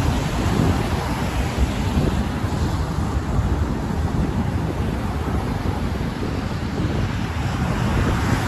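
Wind buffeting the microphone: a steady low rush with a heavy rumble and no breaks.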